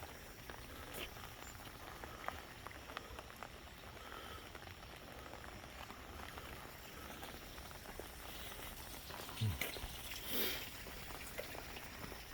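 Light rain falling steadily, a soft hiss with scattered drop ticks. A louder brief scuff comes about nine and a half seconds in.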